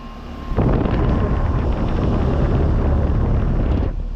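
Air conditioner condensing unit's fan discharge blowing across the microphone: a loud rush of wind noise with heavy low rumble that starts suddenly about half a second in and cuts off just before the end.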